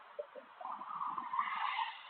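A car passing on the highway: a swell of tyre and road noise that rises about half a second in and falls away near the end.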